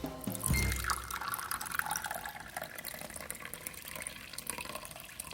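Running water, a steady splashing hiss that fades slightly toward the end, after the last note of background music about half a second in.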